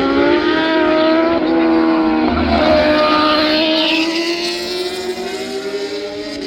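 Racing superbike engines at high revs, several bikes at once, their pitch rising and falling as they accelerate and pass.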